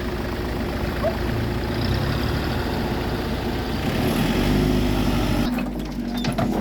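Engine of heavy farm machinery running steadily, its note shifting about four seconds in and changing abruptly a little before the end.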